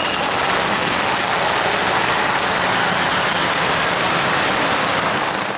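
Heavy rain falling steadily: a dense, even hiss that dies away near the end.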